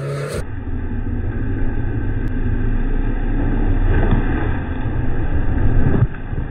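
Lada Niva 4x4's engine running hard under load as it ploughs through wet mud, the wheels flinging mud, growing louder until it drops off suddenly about six seconds in.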